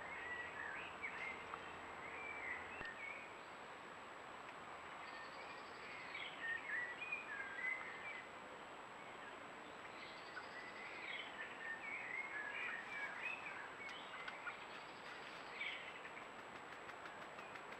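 A songbird singing quick warbling phrases in three bouts of a few seconds each, over a steady background hiss.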